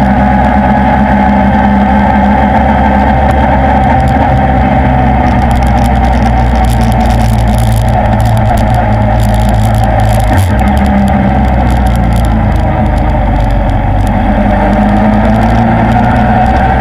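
Suzuki inline-four motorcycle engine running steadily at road speed, heard from on board the moving bike, its note rising a little near the end.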